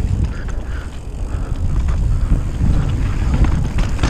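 Mountain bike rolling fast down a dirt and rock trail, with wind buffeting the microphone as a steady low rumble. Scattered short clicks and rattles come from the bike over rough ground.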